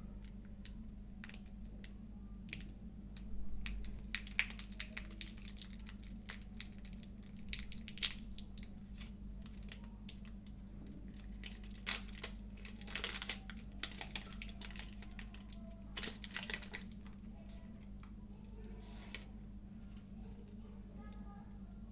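Short bursts of close-miked crackling and crunching from a Cadbury Dairy Milk Crispello chocolate and its wrapper, coming every few seconds over a steady low hum.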